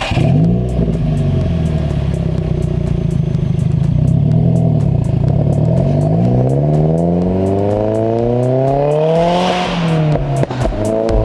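Subaru WRX's turbocharged flat-four running with the exhaust note prominent. It holds steady at first, then revs up over about three seconds. Near the peak there is a hiss of turbo air, the pitch drops sharply, and it starts climbing again near the end.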